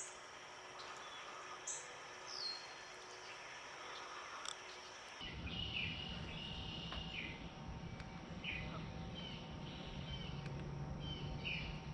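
Wild birds chirping and calling in short repeated notes, faint, with a low steady rumble underneath from about five seconds in.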